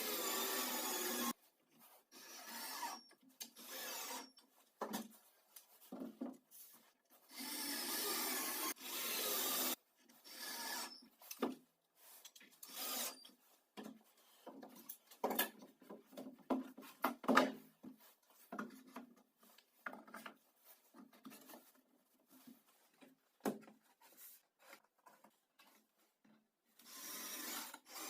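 Wood being worked by hand: irregular rubbing and scraping strokes, a few of them long and steady, mixed with small sharp knocks, in stop-start bursts.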